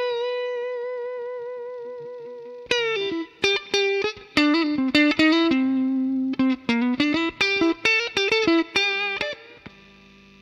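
Electric guitar played through a DemonFX Gravity effects pedal: a single-note lead line that opens with a long note held with vibrato, then a run of quickly picked notes. It stops about a second before the end, leaving a faint hum.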